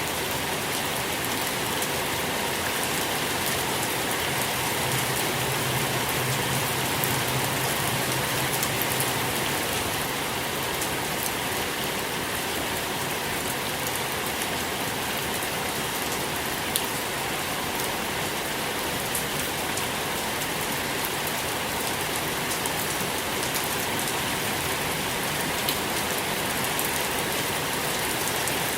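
Steady rain falling, a dense even patter of drops on a surface with small individual drop ticks scattered through it.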